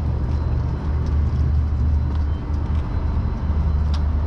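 Heavy vehicle engine idling steadily with a deep, even rumble, and a few faint clicks.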